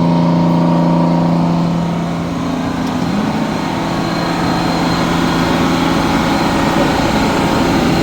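1988 Amertek 4x4 fire truck's engine running steadily at wide-open throttle to drive the fire pump for the side hose reel. After about two seconds a steady rushing noise comes up over the engine note.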